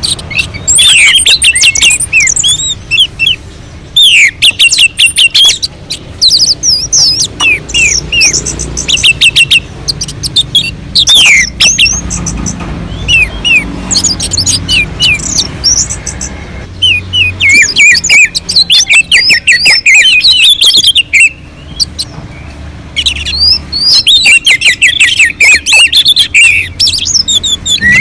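Orange-headed thrush (anis merah) singing loudly in long, energetic phrases of rapid repeated chirps and quick sweeping whistles, with a few short pauses between phrases.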